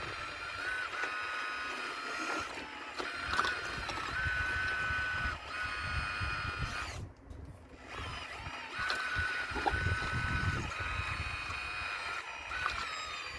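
Model Caterpillar RC excavator working, its electric drive motors whining in stretches that start and stop with each movement. The whine drops out briefly about seven seconds in, and a few sharp knocks sound over a low rumble.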